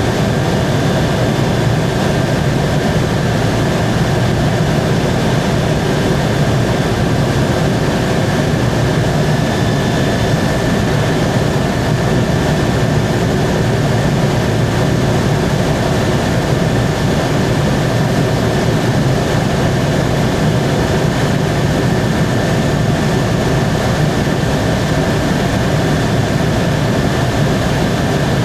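Helicopter in flight: steady engine and rotor noise with a constant high whine over a heavy low rumble.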